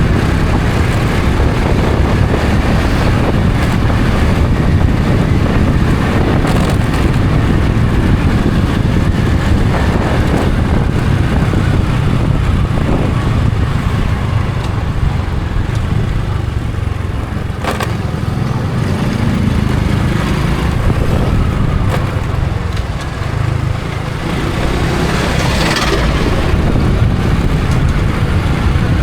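Honda Supra X 125 FI's single-cylinder four-stroke engine running as the motorcycle is ridden, with a dense low rumble throughout. The level sags briefly twice, about halfway through and again about two-thirds of the way in.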